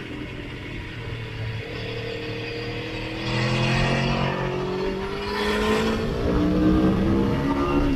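Sport motorcycle engine pulling under way, its pitch climbing slowly and steadily as it accelerates, with wind rush swelling twice.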